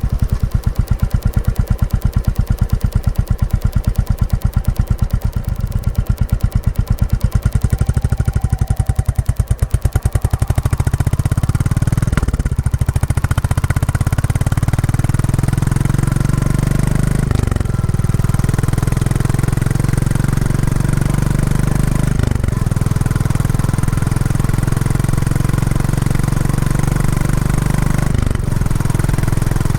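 Royal Enfield Classic 350's single-cylinder engine through its stock exhaust, beating slowly with separate thumps for about the first ten seconds, then pulling away at higher revs with short breaks every few seconds as it shifts up through the gears. The engine is being run in.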